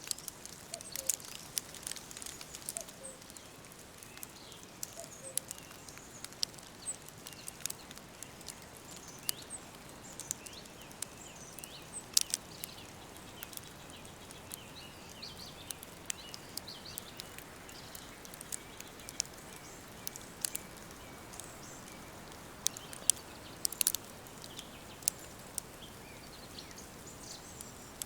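Woodland ambience: a steady soft background hiss with faint, scattered bird chirps, broken by many sharp irregular clicks and pops, the loudest about 12 and 24 seconds in.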